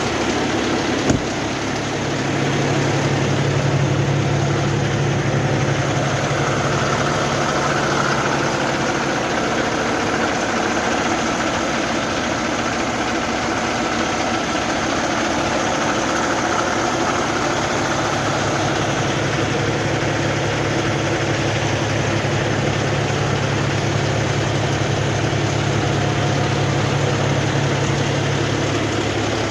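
Dump truck engine idling steadily, with one short click about a second in.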